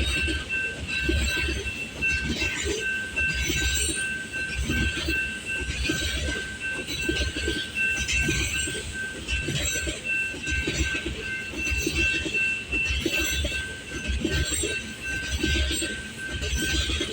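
Freight train of oil tank cars rolling past at speed: steady rumble and clatter of wheels on the rails, with a continuous thin high squeal from the wheels.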